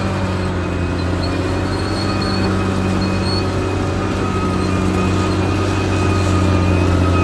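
Caterpillar D6R XL bulldozer's diesel engine running steadily, with a level high-pitched whine over it and a slight rise in loudness near the end.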